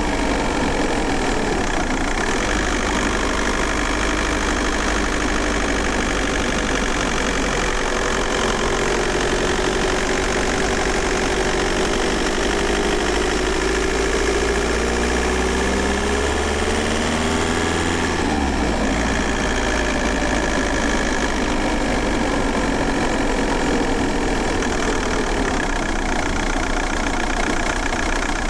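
VW Golf 4 4motion's 1.9 TDI four-cylinder turbodiesel running under way, heard from inside the cabin. Its note slowly rises and falls, then changes suddenly about two-thirds of the way through before settling again.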